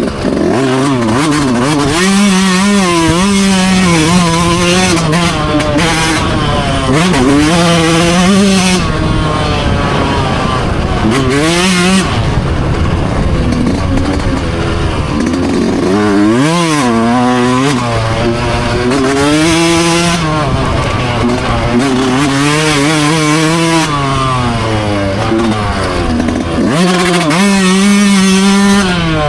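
Dirt bike engine running hard on a motocross track, its pitch repeatedly climbing and dropping as the rider accelerates, shifts and backs off.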